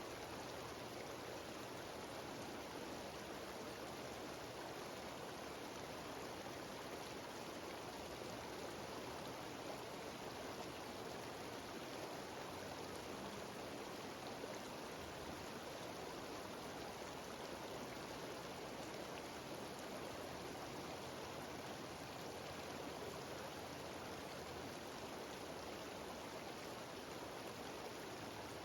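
Steady, even rush of water from a small waterfall cascading down a mountain stream.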